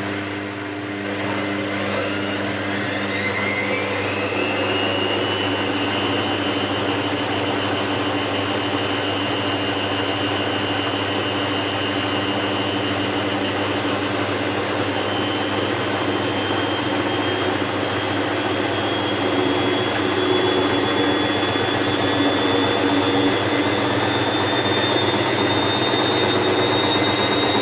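Hoover VisionTech washing machine's motor whining as the drum speeds up: the whine rises quickly in pitch over the first few seconds, then settles into a loud steady high-speed run that keeps creeping slightly higher.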